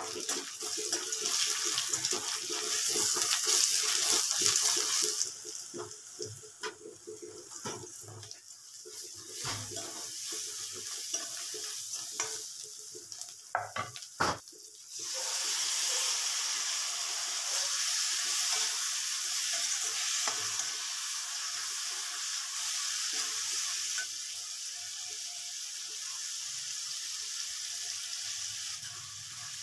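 Hot oil sizzling in a metal kadai as onions and spices are fried and stirred with a metal ladle, with scattered scraping clicks of the ladle. The sizzle is loud at first, dies down to mostly scrapes for several seconds, then comes back steady about halfway through, when sliced tomatoes are frying in the pan.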